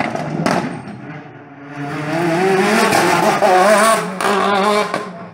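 Rally car engine revving hard as the car accelerates away, its pitch climbing and falling several times.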